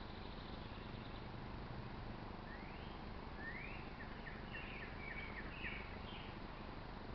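Faint bird calls: a rising note about two and a half seconds in, then a run of short gliding notes until about six seconds in, over steady low background noise.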